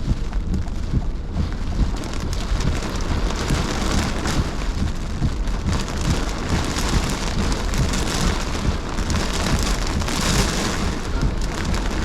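Heavy rain pelting down in steady storm noise, with many fine drop strikes and a constant low rumble.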